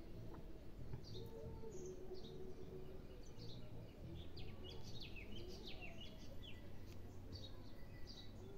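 Small birds chirping now and then, with a quick run of short falling chirps around the middle, over a steady low background hum.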